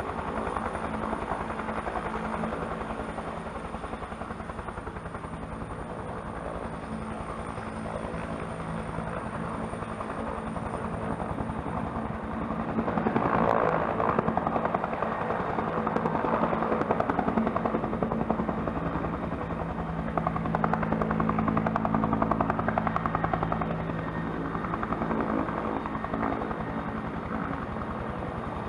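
Bell helicopter turbine and rotor running, a steady rapid blade chop over a low whine. It swells louder about halfway through and again about two-thirds of the way in.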